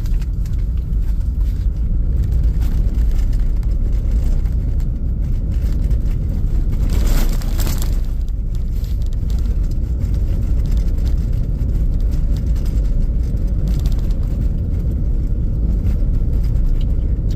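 A car driving along: a steady low rumble of engine and tyre road noise, with a brief hiss about seven seconds in.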